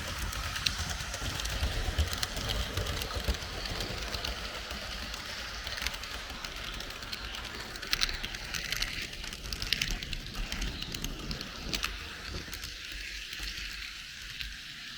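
H0 scale model train running along the track, heard from a camera riding on the train: a steady rattling rumble of wheels on rails with scattered sharp clicks, easing off somewhat about two thirds of the way through.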